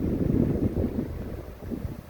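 Strong wind buffeting the microphone: a gusty low rumble that eases off in the second half.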